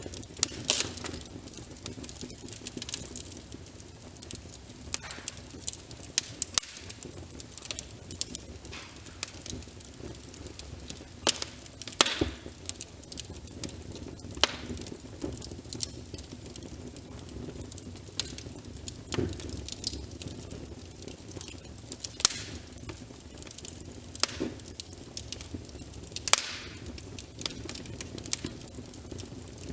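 Wood fire crackling with sharp irregular pops, the loudest every few seconds, over a steady hiss of rain.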